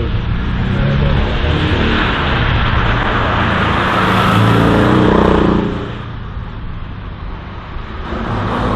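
Race car engine accelerating hard past, its pitch climbing through the revs and loudest about five seconds in. It falls away briefly, then an engine climbs again near the end.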